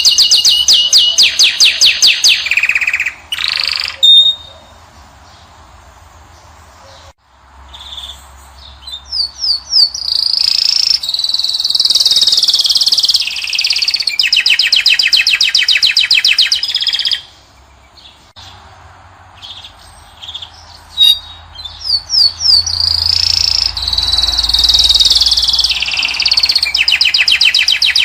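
European goldfinch singing: runs of rapid twittering trills and buzzy notes in three long phrases, broken by short pauses of a few seconds.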